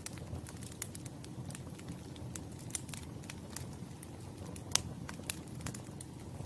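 Campfire burning with a steady low rumble and irregular crackles and snaps of burning wood, one sharper pop a little after the middle.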